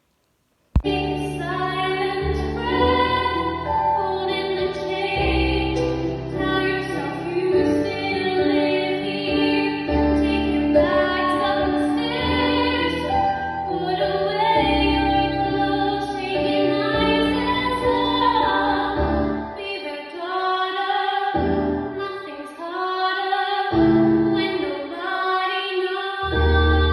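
A young woman singing a musical theatre song with instrumental accompaniment, starting abruptly under a second in.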